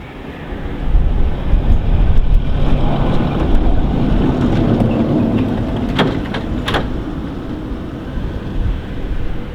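Steam-hauled train passing close by: a heavy low rumble builds about a second in and eases off toward the end, with two short sharp bursts just past halfway.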